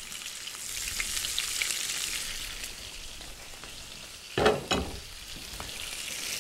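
Flour-dredged shrimp frying in hot olive oil in a pan: a steady sizzle with scattered small crackles and pops. About four and a half seconds in there is a brief, louder voice-like sound.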